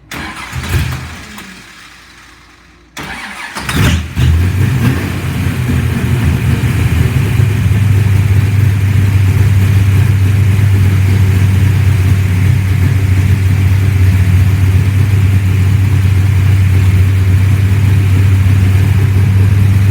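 A 511-cubic-inch Ford FE big-block V8 on dual Holley four-barrel carburetors being started. A first try fires briefly and dies away, then about three seconds in it catches, revs and settles into a loud, steady high idle of about 1500 rpm.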